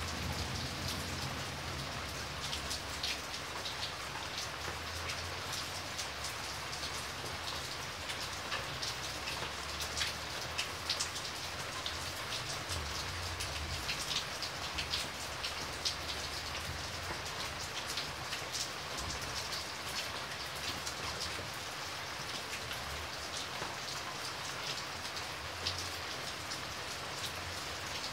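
Rain falling on wet paving stones: a steady hiss with many sharp splashes of single drops.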